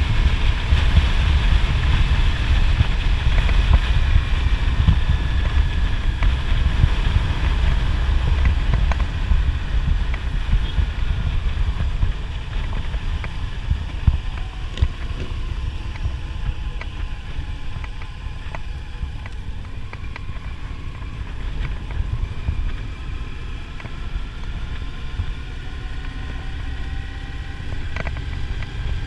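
Wind buffeting the microphone of a moving motorcycle, with the engine running underneath and faint tones drifting in pitch. It is louder for about the first twelve seconds, then settles somewhat quieter.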